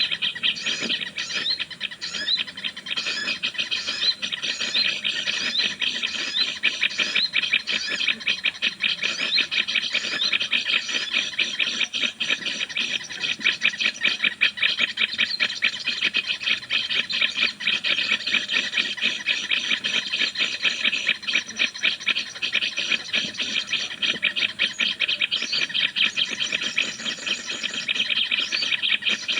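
Birds chattering in a dense, continuous stream of fast repeated chirping notes.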